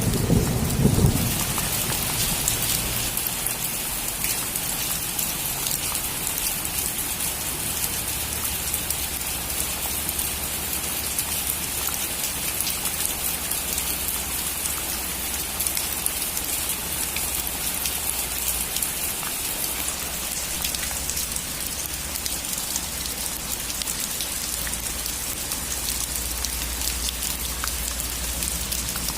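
Steady heavy rain falling on a roof, an even hiss of many drops. A low thunder rumble dies away about a second in.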